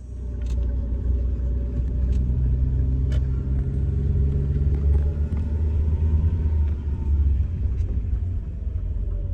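Car on the move: a steady low engine and road rumble, with a fainter engine tone sliding down in pitch near the end.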